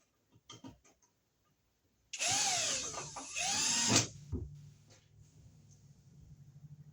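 Cordless drill/driver running in two short bursts about two seconds in, its motor pitch rising and falling as it drives screws, with a few light clicks before and a faint low hum after.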